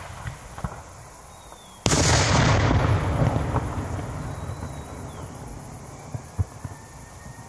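Fireworks going off: a couple of small pops, then about two seconds in a loud bang whose rolling echo dies away over several seconds, and one more sharp crack near the end.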